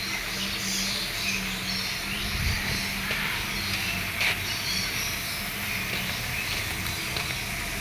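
Outdoor background with birds chirping here and there over a low steady hum, and one short click about four seconds in.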